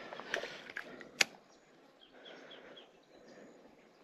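A few sharp clicks in the first second and a half, the loudest about a second in. Then a bird chirps in a run of short, repeated calls.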